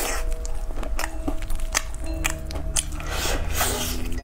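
Crunchy bites and chewing of sauce-glazed Korean fried chicken, a string of sharp crunches, over background music with long held notes.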